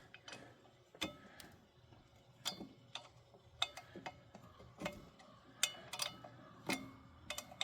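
Socket ratchet working a small bolt: about a dozen sharp metallic clicks at uneven intervals, some with a short ring.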